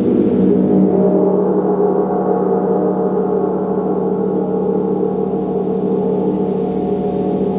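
Gong ringing in a long, sustained wash of many overlapping tones, strongest low down. Its brighter upper shimmer fades away while the lower hum holds steady.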